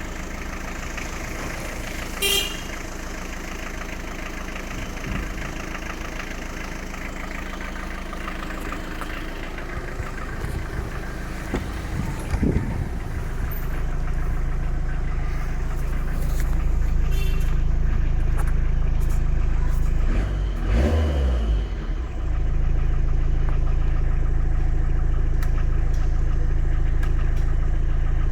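Tata Indica V2 car engine idling steadily, then revved a little past halfway and held at a higher, louder speed, with a brief dip and rev about three quarters through.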